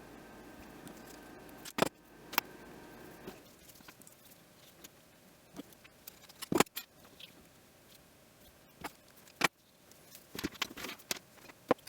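Scattered sharp clicks and taps of hand work with pliers, cutters and spark plug wire with its small metal terminals, several coming close together near the end. A faint steady background hum stops about three seconds in.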